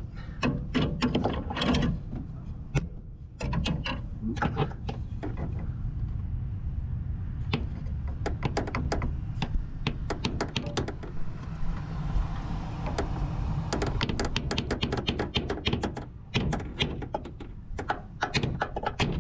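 Hammer tapping on a marking bit set in a steel template to punch hole positions: groups of sharp taps in several clusters, some in quick runs.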